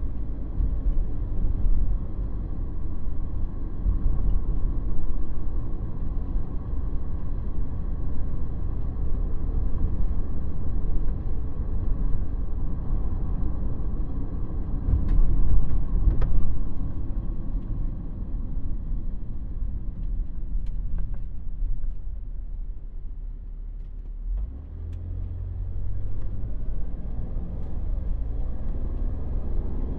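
Cabin noise of a 2017 Ford Transit Sportsmobile van being driven: a steady low engine and road rumble with a few sharp knocks about halfway through. The rumble eases off a little past two-thirds of the way, then picks up again with a steady low drone.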